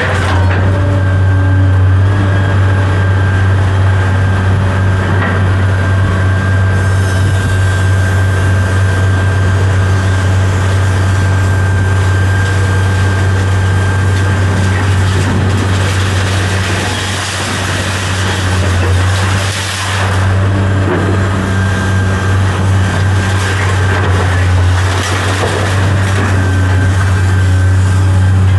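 A large vehicle engine running at a steady speed: a loud low drone with a thin, steady high whine over it.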